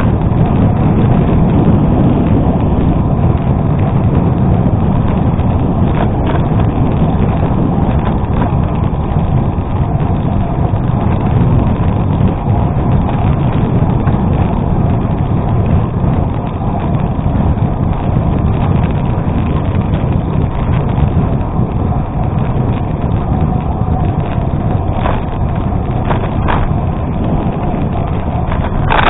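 Steady rumbling noise from a gravel bike riding on an unpaved road: wind buffeting the camera microphone and the tyres rolling over gravel, with a few faint knocks from bumps.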